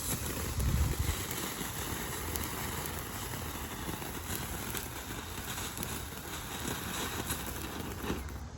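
'Sunshine' consumer firework fountain spraying sparks: a steady hiss with scattered crackles and a low thump about a second in, dying away near the end.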